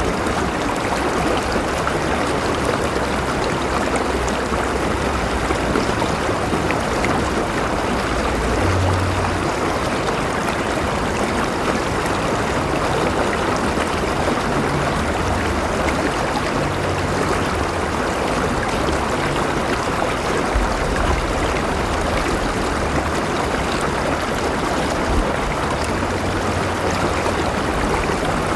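A river flowing steadily, with water rushing and gurgling over stones.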